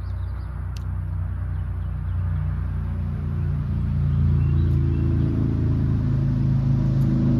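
A motor vehicle engine running with a steady low hum, growing louder about three seconds in and then holding steady.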